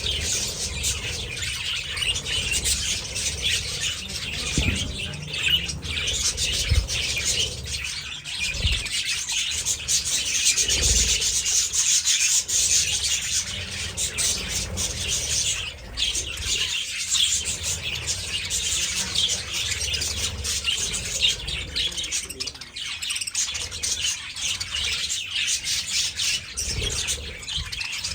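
A flock of budgerigars (budgies) chattering and chirping constantly in a dense, overlapping warble, with a few low thuds in the first half.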